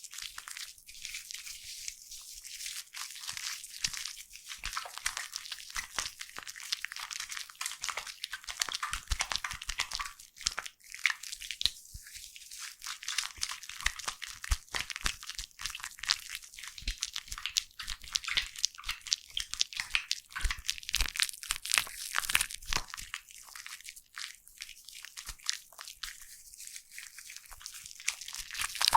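Foam crackling close to the microphone: a dense, irregular fizz of many tiny bubbles popping.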